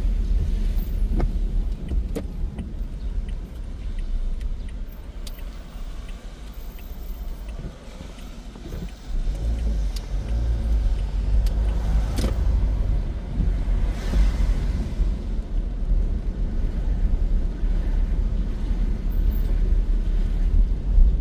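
Steady low road rumble from inside a moving vehicle, with a few sharp clicks. It drops quieter for a few seconds near the middle, then picks back up.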